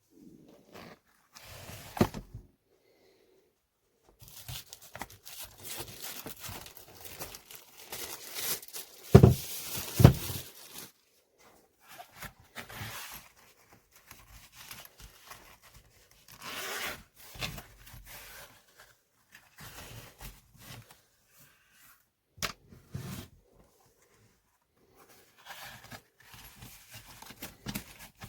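Irregular handling noises: rustling and scraping in short bursts with quiet gaps, and two louder knocks about nine and ten seconds in.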